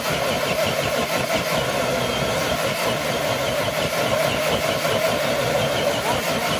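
Scale RC crawler truck's electric motor and geared drivetrain whirring steadily under load as it drags a brick-weighted dead sled.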